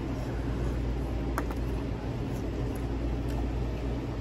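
A man biting and chewing a pepperoni pizza slice, a few soft crunchy clicks, over a steady low hum in the room.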